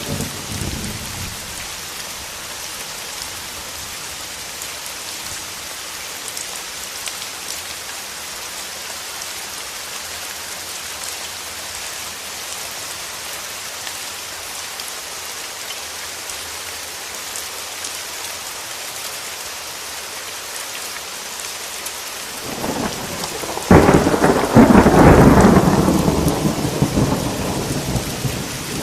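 Steady rain falling through a thunderstorm. The tail of a rumble fades in the first second. About 22 seconds in, thunder builds into a loud clap and then rolls away slowly.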